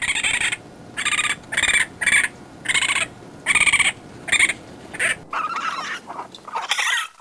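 Raccoon calling: a string of short, high chittering calls about every half second, turning rougher and raspier near the end.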